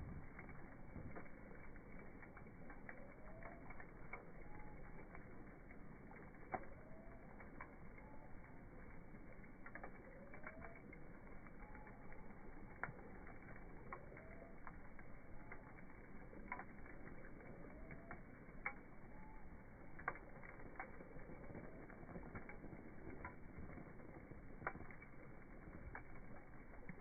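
Wood bonfire crackling: a steady low hiss with irregular sharp pops, a handful of them much louder. A short rising chirp-like call repeats every second or so through the first two-thirds.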